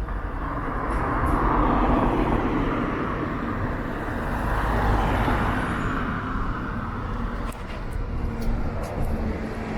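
Road traffic on a town street: cars passing, their engine and tyre noise swelling about two seconds in and again about five seconds in, over a steady low rumble, with a few light clicks near the end.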